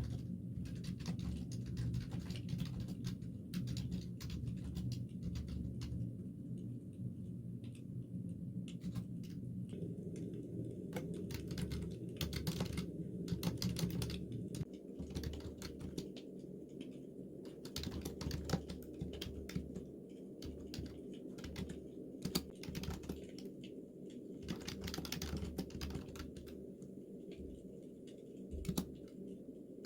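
Typing on a computer keyboard: a run of irregular key clicks over a low, steady background hum.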